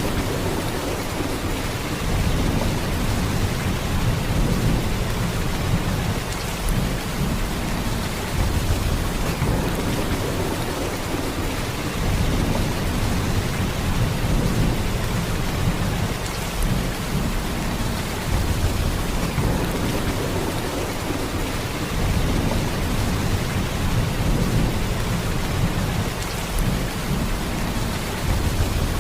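Heavy rain pouring steadily, a dense hiss of drops with a deep low rumble that swells and eases every few seconds.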